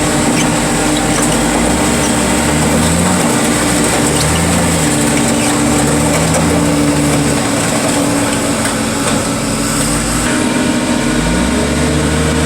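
Engine of heavy equipment running continuously, its pitch rising and falling several times as the engine speed changes under load.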